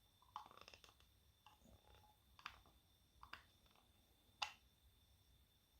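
Faint scraping and tapping of a mixing stick in a cup as the last of the mixed silicone rubber is scraped out, followed by three sharp clicks, the last and loudest near the end.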